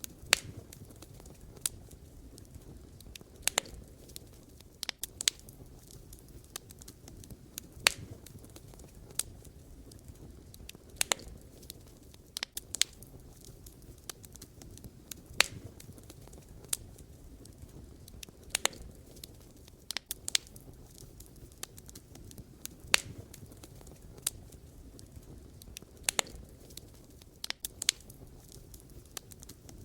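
Wood fire burning, with sharp irregular crackles and pops from the burning logs over a soft low rumble of flame.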